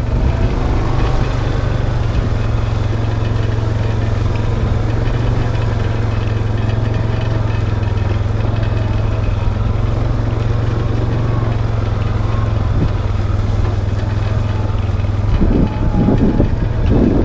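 Vehicle engine running steadily while driving, a continuous low drone.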